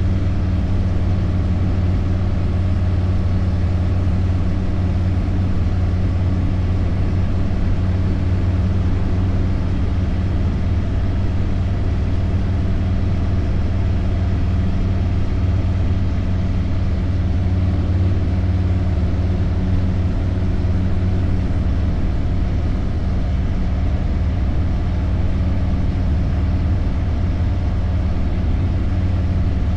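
Harley-Davidson motorcycle engine running steadily at a constant cruising speed, a low even drone with road noise.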